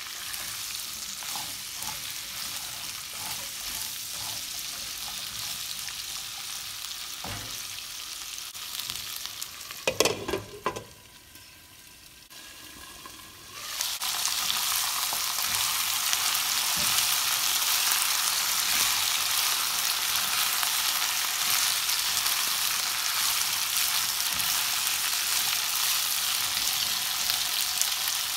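Cut French beans sizzling in hot oil in a nonstick pan as they are sautéed and stirred. A few sharp knocks come about ten seconds in. The sizzle then drops low for a few seconds and returns louder and steady from about halfway.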